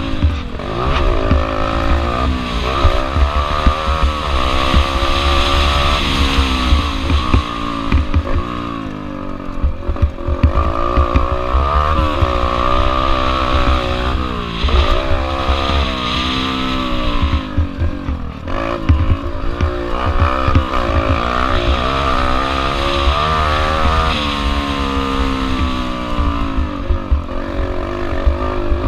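Small single-cylinder four-stroke pit bike engine, a Yamaha TT-R125L, being ridden hard: it revs up, drops as the rider shifts or lets off, and climbs again over and over, with a low rumble of wind on the microphone.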